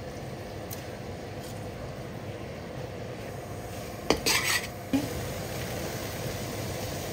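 Chicken pieces sizzling steadily as they brown in hot oil in a metal pot. About four seconds in, a perforated metal spoon clanks against the pot and scrapes as the chicken is stirred, with another knock about a second later.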